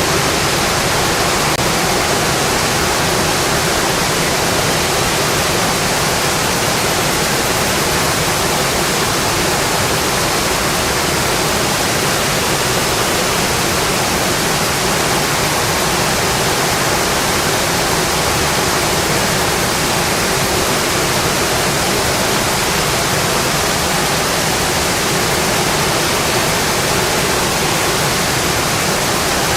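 Rain falling on a metal roof: a steady, even hiss with no let-up.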